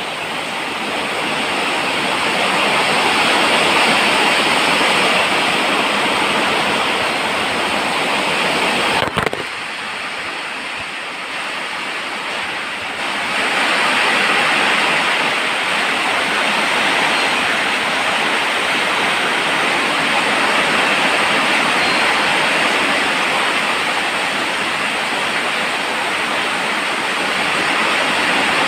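Steady, dense falling rain, a continuous even hiss. About a third of the way in there is a sharp click, and the rain is quieter for a few seconds before returning to full strength.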